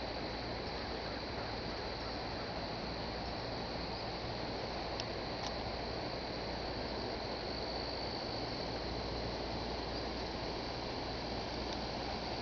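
Steady rushing of fast-running floodwater from an overflowing creek, with a steady high-pitched hum above it.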